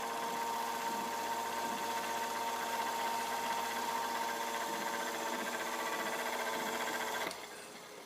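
Camel PSIF-16 electric fan motor running noisily with a steady whine, the noise it makes when spinning on a worn shaft and bushing. It stops suddenly about seven seconds in.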